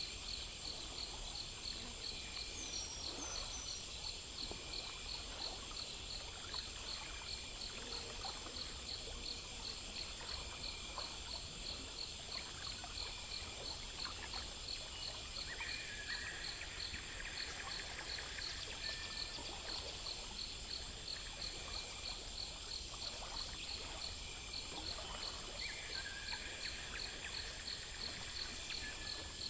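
Night nature ambience: insects chirping in rapid, steady trains at several high pitches, with an occasional separate call, over a soft, even wash like running water.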